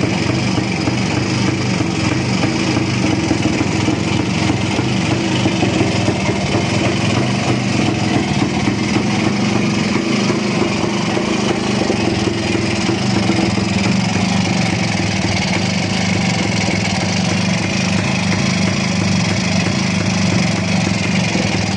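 K-125M motorcycle's single-cylinder two-stroke engine running steadily at a constant speed, with no revving.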